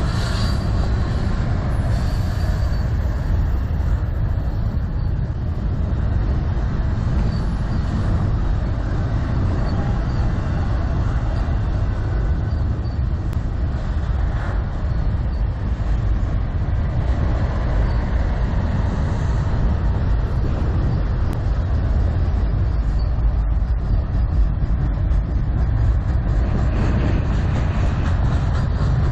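CN freight train cars rolling steadily past on the rails, with heavy wind buffeting on the microphone.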